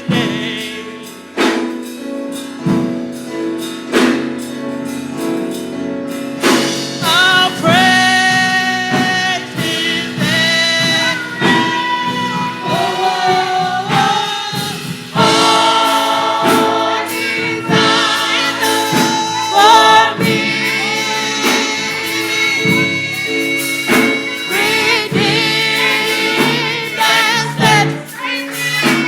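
Gospel choir singing with instrumental accompaniment and a steady beat; the voices come in fuller about seven seconds in.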